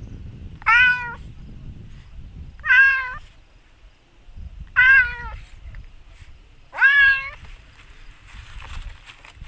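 A domestic cat meowing four times, about every two seconds, each call short and arching up then down in pitch, over a low rumble.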